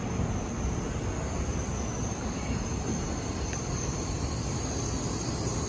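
Shinkansen bullet train moving slowly through the station, a steady low rumble with no sharp knocks or squeals.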